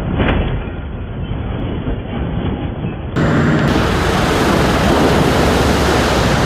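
Heavy vehicle running with a steady, noisy rumble. It comes from two spliced clips: a muffled one, then a louder, fuller one from about three seconds in.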